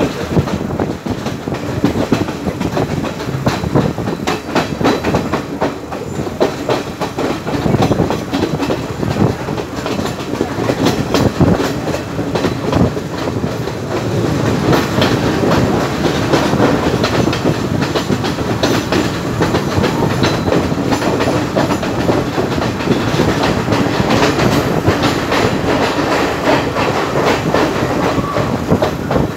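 Sri Lanka Railways class S12 diesel multiple unit running on the line, its wheels clicking steadily over the rail joints amid the rush of the moving train, heard through an open carriage window. The sound gets a little louder about halfway through.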